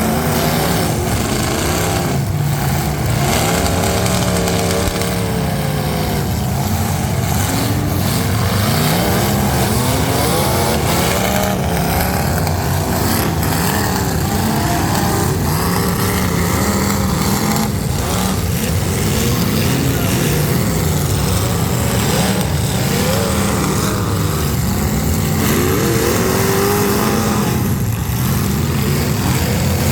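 Several full-size demolition derby cars' engines running and revving at once, their pitches rising and falling as the drivers gas and back off. A few sharp bangs of impacts stand out, about two seconds in, around the middle and near the end.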